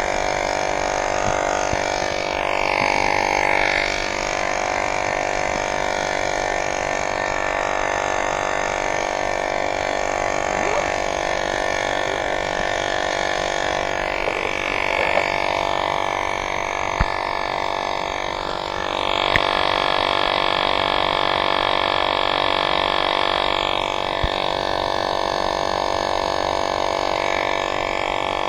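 Electric air pump running steadily as it inflates a bicycle tire, giving a continuous buzzing drone. There are a few small clicks in the second half.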